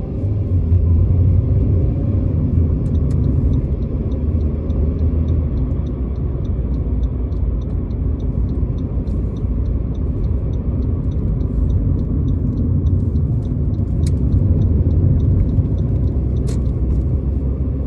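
Steady low rumble of a car being driven, heard inside the cabin. Through most of it a faint, regular ticking runs at about three ticks a second.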